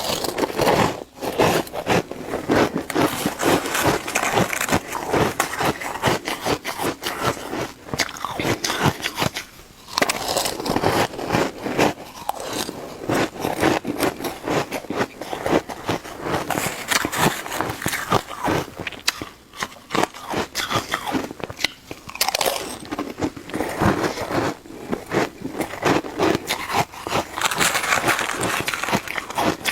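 Close-up crunching and chewing of shaved ice in big, fast bites, a dense crackle of ice breaking between the teeth with brief pauses between mouthfuls.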